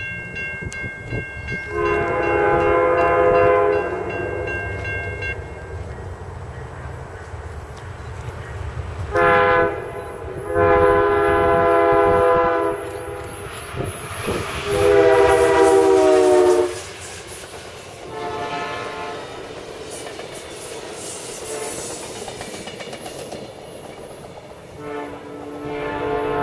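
Amtrak passenger train's locomotive air horn sounding a series of blasts, long ones and one short, as the train approaches and passes; the pitch of the blast about fifteen seconds in slides down as the locomotive goes by. The low rumble of the train and wheels on the rails runs underneath, and the horn sounds again near the end.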